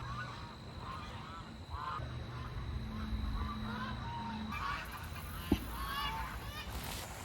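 A flock of geese honking, many short calls overlapping one after another. A single sharp click about five and a half seconds in.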